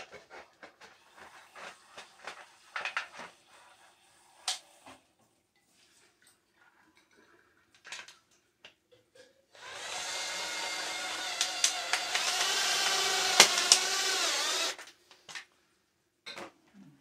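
Light taps and clicks of sheet-metal pieces being handled, then an electric power tool's motor runs steadily for about five seconds, its pitch dipping briefly just before it stops.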